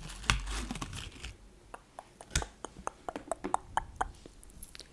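Close-miked handling of a small package being opened by hand: a rustle for about the first second, then a run of sharp, irregular small clicks and taps.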